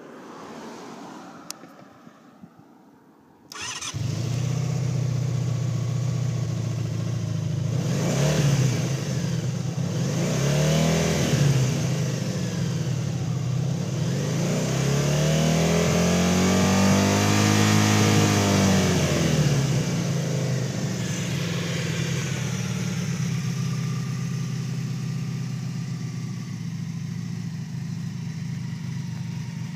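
Honda V45 Super Magna's 750 cc V4 engine starting after a couple of clicks, then idling. It is revved twice, briefly and then longer, rising and falling in pitch, and settles back to a steady idle.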